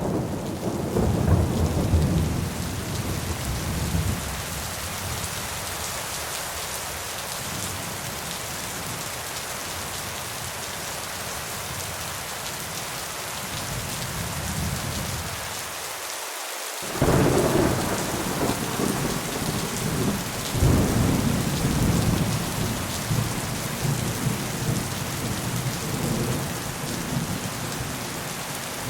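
Thunderstorm: steady rain falling throughout, with thunder rumbling in the first few seconds. After a brief drop in the low rumble a little past halfway, two loud thunderclaps break in a few seconds apart, then roll on under the rain.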